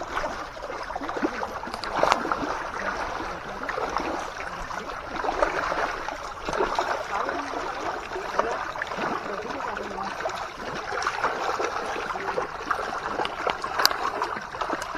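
Water running and gurgling in a waterfall stream, with small splashes scattered through it.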